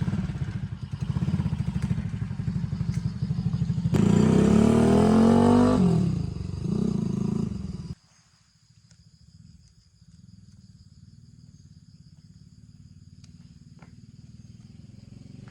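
Motorcycle engine running at a fast idle, revved once about four seconds in, its pitch rising and then falling back. About eight seconds in the sound drops away suddenly to a faint low engine hum that slowly grows louder.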